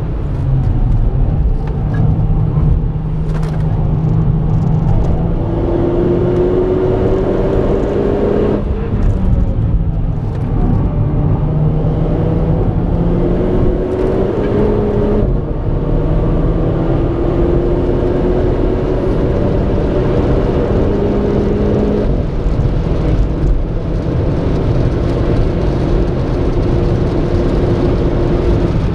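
Renault Clio RS 220 engine heard from inside the car under hard acceleration at track speed. The engine note climbs steadily in each gear and drops abruptly at each upshift, about four times, over constant road and tyre rumble.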